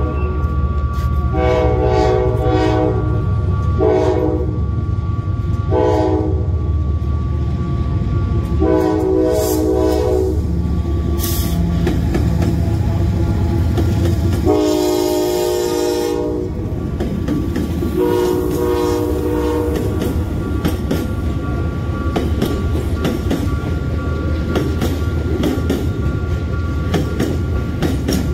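Freight train headed by two GE ES40ACi diesel-electric locomotives passing close, sounding their air horns in six blasts over the first twenty seconds, some short and some long. The loudest blast comes about fifteen seconds in as a locomotive goes by. After that the hopper wagons clatter and rumble past over the rail joints.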